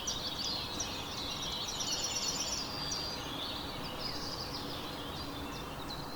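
Several small songbirds chirping and calling together over a steady background hiss, with a quick run of rapidly repeated notes about two seconds in.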